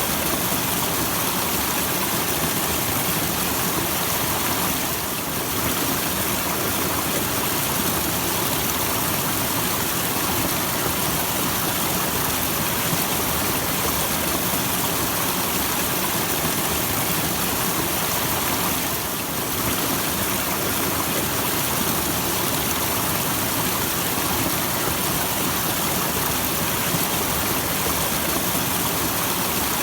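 Small waterfall splashing: a steady, even rush of falling water, dipping slightly in level twice.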